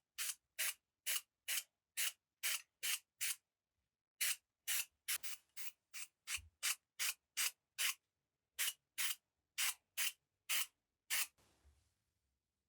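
Hand sanding: sandpaper rubbed back and forth in short even strokes, about two a second. The strokes pause briefly twice and stop near the end.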